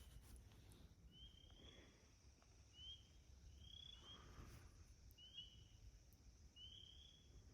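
Faint outdoor animal chirping: short, slightly rising high notes, some in quick pairs, repeated about once a second over a faint steady high hiss.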